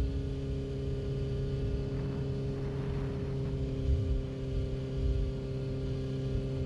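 Yamaha R6 inline-four engine running at steady, unchanging revs, with a low rumble underneath.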